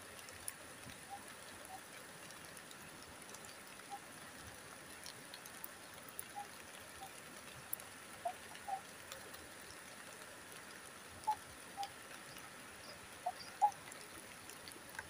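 Light drizzle falling: a steady soft hiss of rain, with scattered drops tapping irregularly, a few louder ones in the second half.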